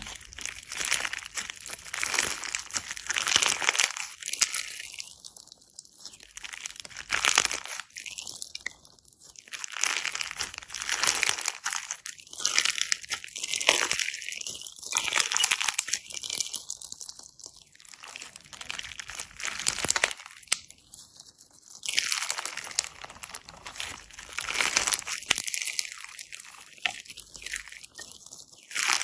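Slime being squeezed and pressed by hand, crackling in repeated bursts every second or two.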